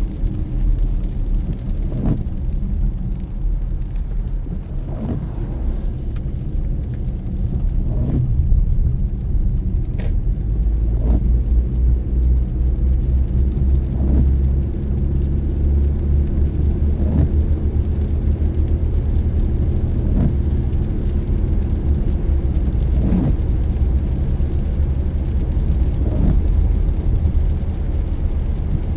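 Car driving, heard from inside the cabin: steady low road and engine rumble, with a windshield wiper sweep about every three seconds.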